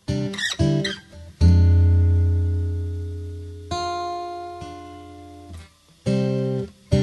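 Acoustic guitar music: a few quick plucked notes, then strummed chords left to ring out and fade, with a new chord about halfway through.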